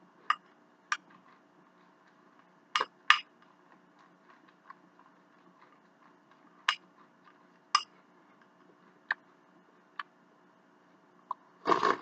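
Eating utensils clinking against a dish: about nine sharp, separate clicks at irregular intervals, with a short rustling burst near the end.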